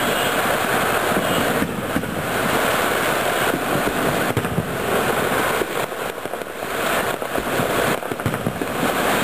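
Fireworks going off in a dense, unbroken barrage, the bangs and crackling running together without a pause.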